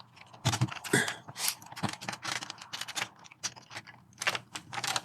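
Rapid plastic clicks and scrapes of a PlayStation 4's plastic case cover being pried and worked at its stubborn clips.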